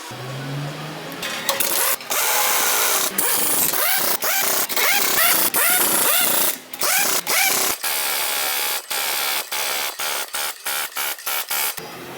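Pneumatic tool in a tyre shop, run in a string of bursts that start long and get shorter and quicker near the end, each burst rising and falling in pitch.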